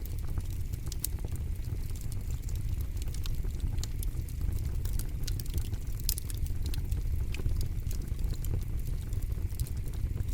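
Campfire burning: wood crackling with frequent sharp pops over a steady low rumble.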